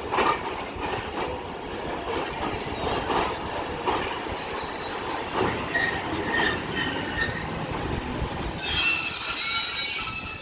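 Arriving passenger train's wheels clattering and knocking over the rails, then a high wheel-and-brake squeal with several tones near the end as it slows.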